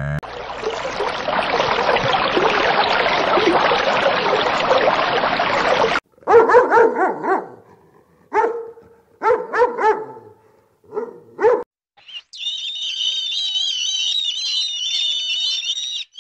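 A dog barking in a string of short, separate barks between two other sounds: first a dense, loud noisy din, and near the end a high, wavering call.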